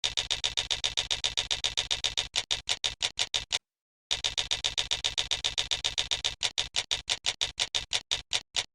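A toy making a rapid mechanical-sounding ticking, about seven ticks a second, in two runs with a short gap between them; each run slows down toward its end.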